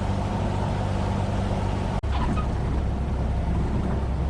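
Cessna 172F's six-cylinder Continental engine droning steadily, heard inside the cabin. About two seconds in the sound cuts out for an instant and returns with a lower-pitched drone.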